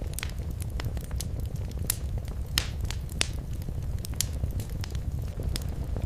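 Fireplace fire crackling: irregular sharp snaps and pops over a steady low rumble of flames, with a few louder pops near the middle.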